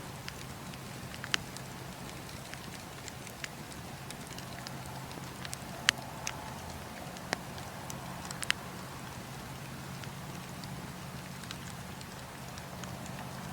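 Campfire crackling: a steady hiss of burning wood with sharp, scattered pops and snaps, the loudest about six seconds in, over a steady low hum.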